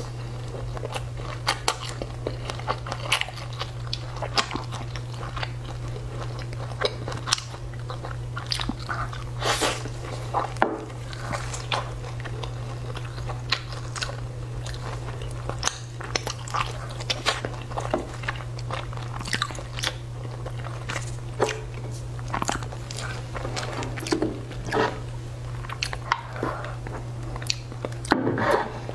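A person chewing and biting into a burger, close to a lapel microphone, with irregular sharp clicks of chewing throughout. A steady low hum runs underneath.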